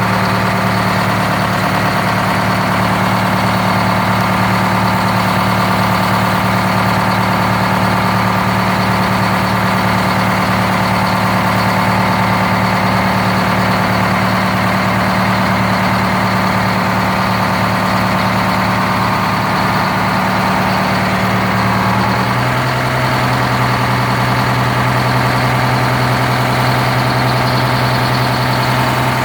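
Detroit Diesel 8V71N two-stroke V8 diesel of a 1982 Hahn fire truck idling steadily after a cold start. Its note changes in a single step about three-quarters of the way through, then holds steady again.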